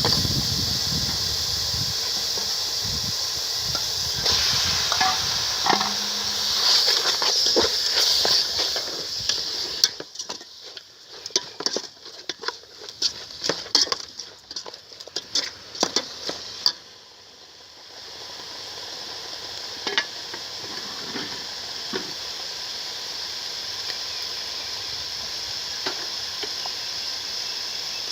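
Chicken and ginger sizzling in a hot pan while being stirred, with utensil clicks against the pan. In the middle the sizzle drops away for several seconds and there is a run of sharp clicks and knocks, then a steady sizzle comes back.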